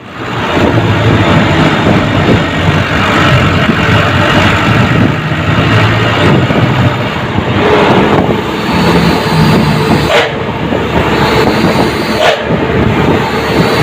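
Army truck running on the road, heard from aboard: a steady engine drone mixed with road and wind noise, with a couple of short sharp bursts about ten and twelve seconds in.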